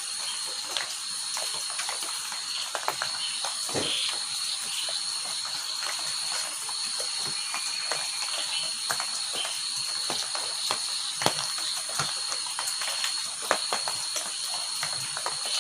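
Rain falling: a steady hiss with many scattered sharp taps of drops. A steady high insect trill, like crickets, runs underneath.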